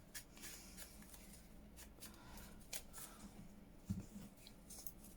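Faint rustling and light clicks of paper and craft pieces being handled on a desk, with a soft thump about four seconds in.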